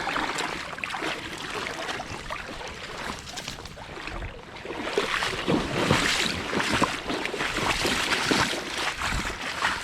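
Water sloshing and splashing in irregular bursts, louder from about five seconds in, with wind on the microphone.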